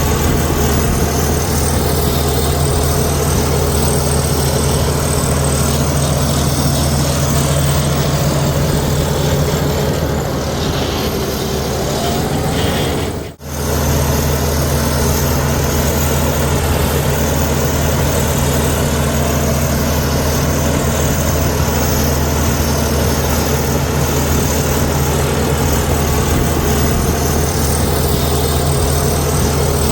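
Komatsu D61EX bulldozer's diesel engine running steadily, with a brief dropout about thirteen seconds in.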